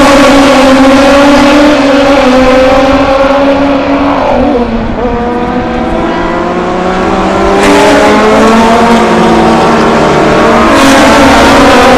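Classic racing car engines running hard. The pitch drops about four seconds in, then climbs again, with short breaks near eight and eleven seconds.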